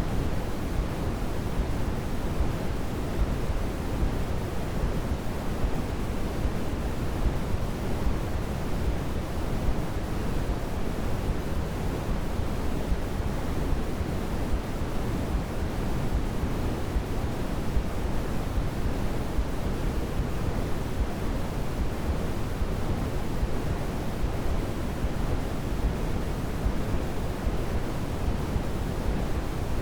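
Steady synthetic noise, a constant even hiss weighted toward the low end like pink noise, with no change in level or character.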